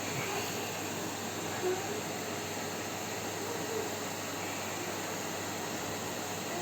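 Electric vacuum cleaner running with a steady, even hiss.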